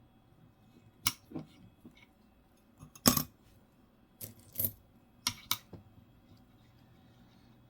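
Coins clicking and clinking against each other and a hard surface as they are handled, picked up and set down. There are about seven sharp clicks, the loudest about three seconds in.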